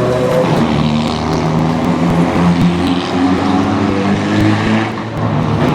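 Rally car engine at high revs, its pitch climbing and dropping back in steps as it shifts through the gears.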